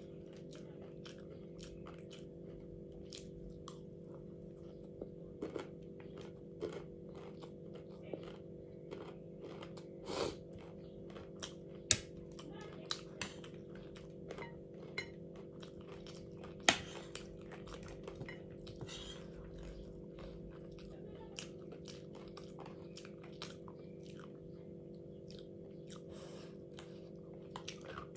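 Close-up chewing and crunching of crunchy food, with many irregular crisp crunches and a few sharper cracks, over a steady low hum.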